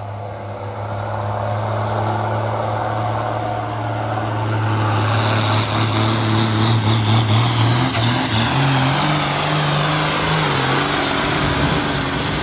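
Diesel pulling tractor's engine at full throttle, hauling the weight-transfer sled down the track. It gets louder over the first few seconds, and its pitch wavers and steps up and down in the second half as the load builds.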